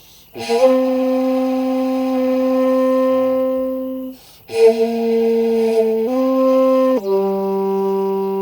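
Hocchiku, an unlacquered jinashi bamboo end-blown flute, playing slow, long held notes with breathy attacks. The first note scoops up into pitch and holds for several seconds; after a short breath a lower note steps up briefly, then drops to a lower note that is held near the end.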